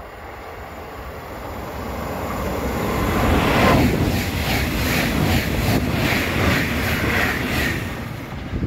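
A train approaching and passing at speed: a rising rush that peaks about three and a half seconds in, then a steady loud rumble with a regular clattering beat as the cars go by, easing off near the end.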